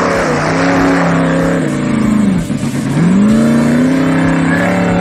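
Off-road race vehicle engine running hard. Its pitch drops away a little past two seconds in, then climbs back up about a second later as it revs again.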